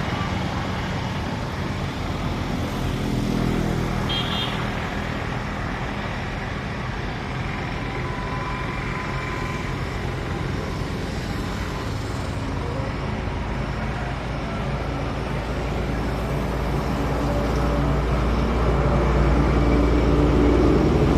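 Steady road traffic noise, with a low rumble that swells over the last few seconds as a vehicle draws near.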